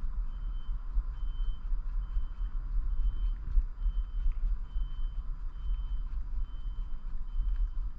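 Electronic beeper repeating a short, high single-tone beep a little faster than once a second, over a steady low rumble.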